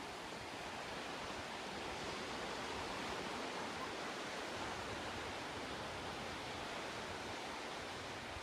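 Surf washing on the beach: a steady rushing hiss that swells a little in the middle and eases again.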